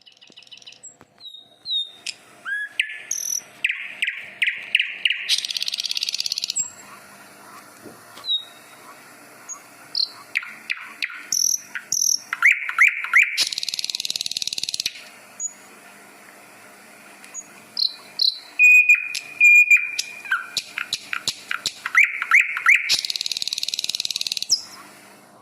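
A songbird singing the same song three times, about every nine seconds: a run of quick notes ending in a long buzzy trill, with short chirps in between.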